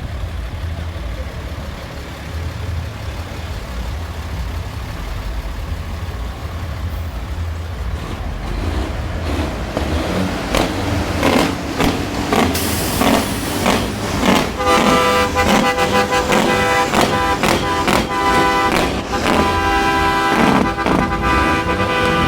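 Heavy trucks running with a low rumble. About eight seconds in, loud rhythmic music starts and builds, and from about fourteen seconds it carries long held tones over the beat.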